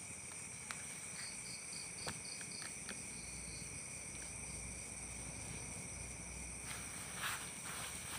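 Insect chorus, mostly crickets: several steady high trills at once, with a separate chirping at about five pulses a second for a couple of seconds near the start. A few faint ticks and rustles are heard as well.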